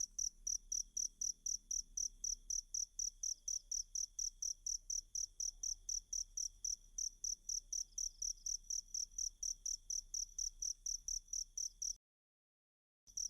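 Cricket chirping in a steady high-pitched rhythm, about four chirps a second, over a fainter continuous trill. It cuts off abruptly about twelve seconds in and starts again just before the end, as in a looped recording.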